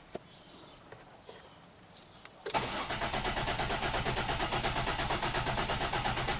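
2005 Ford Escape engine cranking on the starter without catching, an even rhythmic pulse of about five beats a second that begins about two and a half seconds in, after a few faint clicks: a crank-okay, no-start condition.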